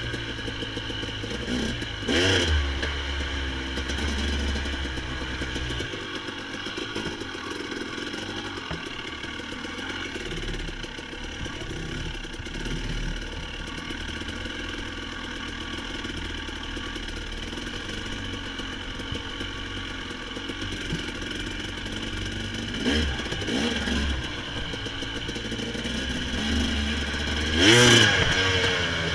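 Small off-road vehicle engine running steadily at low speed, revving briefly about two seconds in, again around twenty-three seconds, and most strongly near the end.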